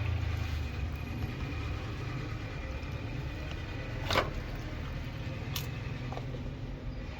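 A steady low mechanical hum, with a sharp click about four seconds in and a fainter click about a second and a half later.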